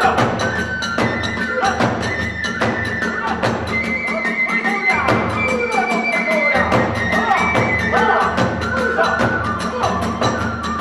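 Live Hiroshima kagura hayashi music: drums and hand cymbals struck in a fast, dense rhythm, with a bamboo flute holding long high notes over them.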